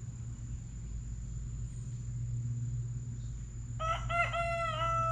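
A rooster crows once near the end, one long stepped call lasting about a second and a half, over a steady low rumble.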